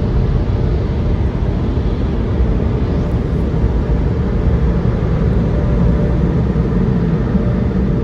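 Tunnel car wash machinery running with a steady, loud rumble and rush of noise, heard from inside the car as it passes through.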